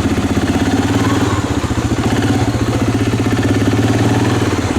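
Suzuki Vinson 500 ATV's single-cylinder four-stroke engine running at low throttle while the quad backs up in reverse. Its pitch rises slightly about a second and a half in.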